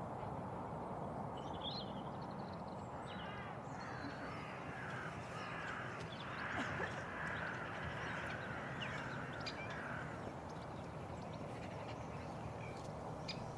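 Birds giving harsh calls, a run of repeated notes from about three seconds in to about ten seconds in, over a steady background hum.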